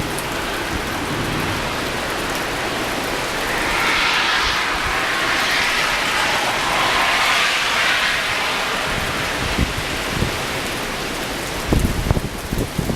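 Blizzard wind gusting over a steady hiss of rain, during the changeover from rain to snow when gusts reached about 55 mph. A gust swells and eases between about four and eight seconds in, and low thumps of wind buffeting the microphone come near the end.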